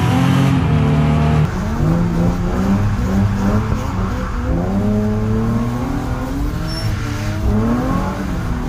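A BMW E36 328i's straight-six held at high revs, heard inside its cabin. After a cut about a second and a half in, a Nissan 350Z's V6 is heard from inside its own cabin, its revs rising and falling over and over while drifting.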